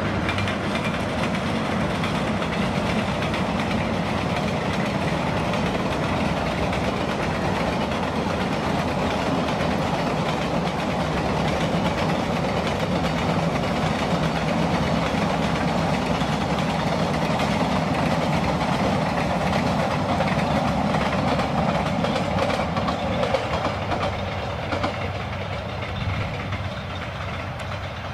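Diesel-hauled passenger train passing: the locomotive's engine running and the wheels rolling on the rails, getting quieter over the last few seconds as the train draws away.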